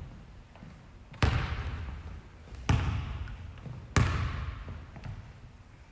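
A basketball bounced on a gym floor three times, slowly, about a second and a half apart, each bounce echoing in the hall.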